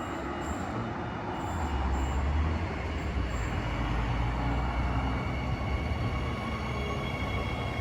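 A passenger train running through the station: a steady rumble of wheels on the track, with faint high steady tones joining in about five seconds in.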